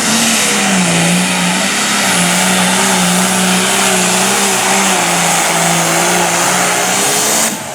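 Super stock pulling tractor's engine held at full throttle under load while it drags the sled, running loud at a high, nearly steady pitch that wavers slightly. It cuts off suddenly near the end.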